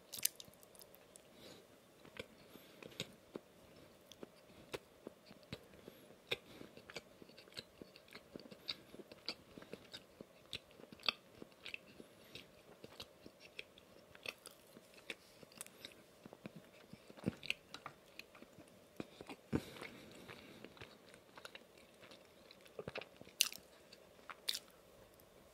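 Close-miked chewing of a bite of glazed donut with crunchy toppings: soft mouth sounds broken by frequent small crunching clicks, the sharpest near the start and again near the end.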